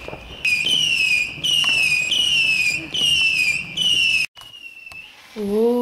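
Whistling fireworks: a quick string of short, shrill whistles, each dropping a little in pitch, about two a second, which cut off abruptly about four seconds in.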